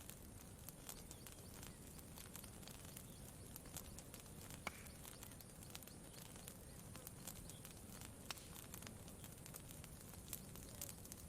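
Faint campfire crackling: scattered sharp pops and ticks at irregular intervals, one a little louder about halfway through, over a steady low rumble.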